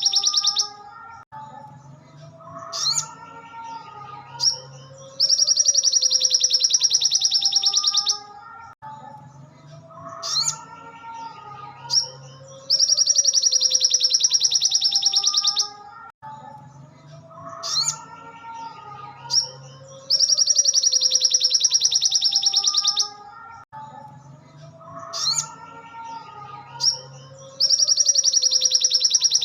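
Looped recording of a sogon (spiderhunter) singing: a loud, very rapid high trill lasting about three seconds, repeated about every seven and a half seconds, with softer, lower twittering and gliding notes between the trills.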